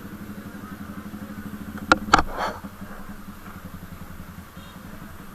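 Motorcycle engine idling steadily, with two sharp clicks about two seconds in and a fainter one just after.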